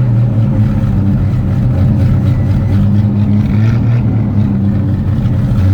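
Carbureted 1974 GMC pickup engine idling just after a cold start at −5 °F, its note wavering slightly, while oil pressure is only beginning to build.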